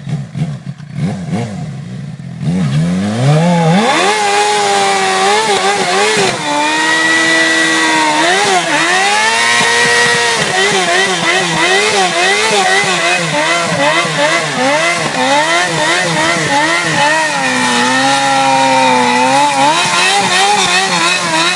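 Car engine revving hard during a street burnout: the revs climb steeply about three seconds in, then are held high with the pitch wavering up and down.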